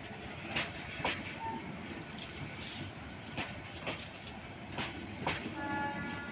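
Metre-gauge intercity passenger coaches rolling past as the train pulls out, their wheels clicking over rail joints, often in pairs, about once a second over a steady rumble. Near the end a brief steady tone sounds over it.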